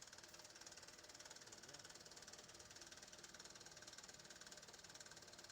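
Faint truck engine idling steadily, a rapid even pulsing.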